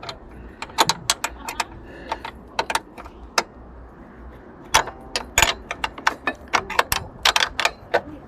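Irregular sharp metallic clicks and clinks of hand tools being worked on a car door, sparse at first and coming thick and fast in the second half.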